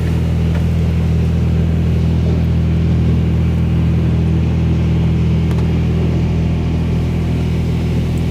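Oasis Typhoon automatic car wash running, heard from inside the car as it applies pre-soak. A steady low hum from its pumps and motors swells right at the start, over a steady hiss of spray.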